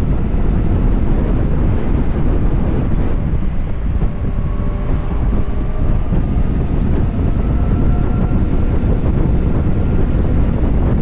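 Wind buffeting the microphone of a moving electric motorcycle, a steady low rush. From about four seconds in a faint thin whine rises slowly in pitch.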